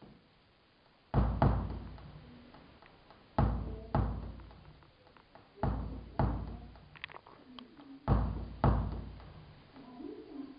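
Heavy knocks or thuds in pairs, half a second apart, repeating four times about every two and a half seconds, each one ringing out slowly as in a large echoing room.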